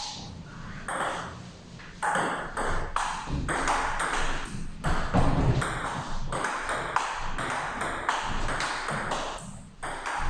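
Table tennis rally: the ball clicking off the bats and the table in a quick, irregular run of sharp hits.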